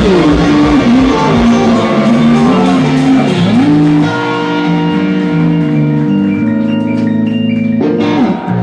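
Live band music led by guitar, loud and full, with sliding notes in the first half. From about halfway it settles into steady held notes, with a short break near the end.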